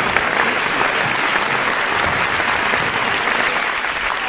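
Audience applause: many people clapping steadily in a dense, even patter.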